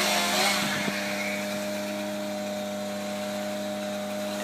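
Petrol engine of tree-felling equipment running steadily at one constant pitch, an even drone with no revving.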